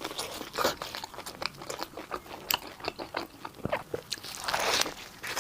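Close-miked biting and chewing of crisp food, a run of small crunches and mouth clicks with a louder crunch about four and a half seconds in.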